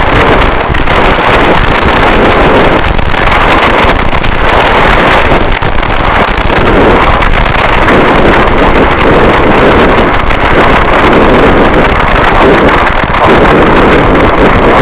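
Harsh noise wall: a loud, unbroken wall of distorted static whose texture shifts slowly, with no separate hits or beats.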